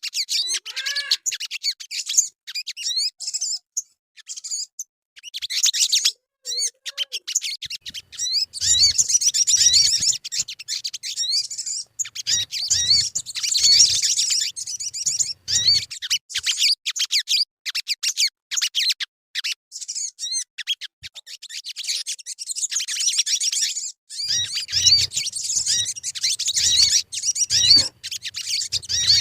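Sogon bird singing: fast, high chirping and twittering chatter in phrases broken by short pauses.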